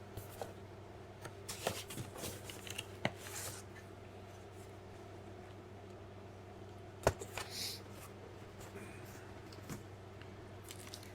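Small objects being moved and set down on a workbench: scattered clicks, knocks and rustling, the sharpest knock about seven seconds in, over a steady low hum.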